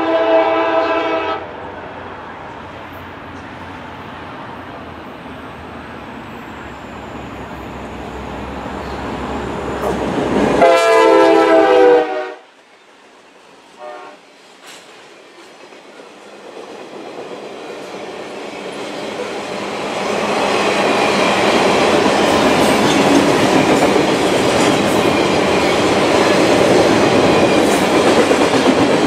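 A diesel freight locomotive sounds its horn in two blasts, the second about ten seconds in and louder, over a rumble that rises as the train approaches. After a brief drop, the freight cars' wheels clatter steadily past on the rails, building to a loud, even rolling noise.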